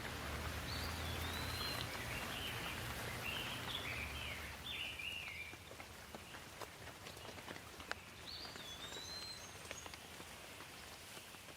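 Steady rain falling, with single drops ticking close by. A songbird sings short chirping phrases through the first half and again near the end.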